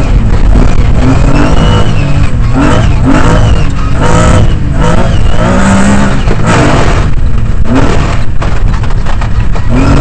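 Lancia Stratos rally car's engine heard from inside the cockpit at full effort, revving up and dropping back again and again with throttle and gear changes, over a constant rush of tyres on the gravel stage.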